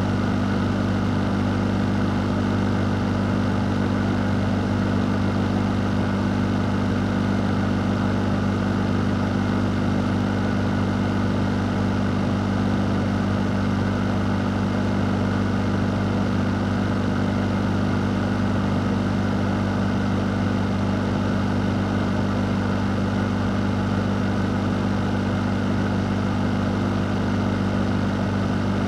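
Electric fan running steadily: a constant low motor hum under an even rush of air, unchanging throughout.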